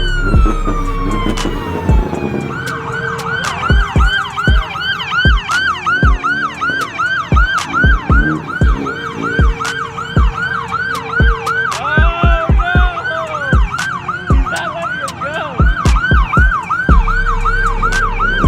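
Police car siren: a slow falling wail, then a fast yelp of about three sweeps a second, with a second siren briefly overlapping near the middle. Deep bass thumps sound underneath.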